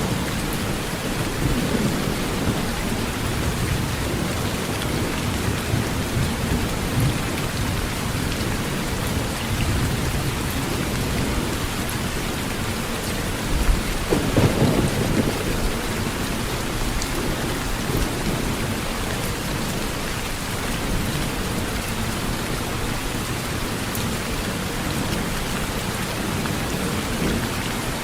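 Steady heavy rain drumming on a metal roof, with a low thunder rumble swelling about halfway through.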